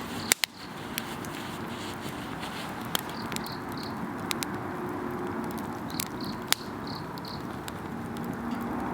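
Wood campfire burning with a steady hiss and scattered sharp crackling pops, the two loudest close together just after the start. Insects chirp behind it in short pulsed trains of a few chirps a second.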